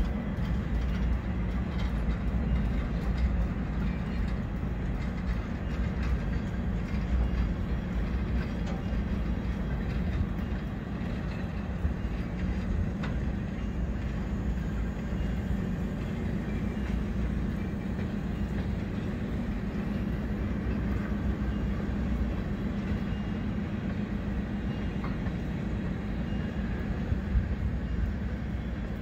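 Freight train cars rolling past: a steady rumble of steel wheels on the rails, with faint clicks as the wheels cross the rail joints.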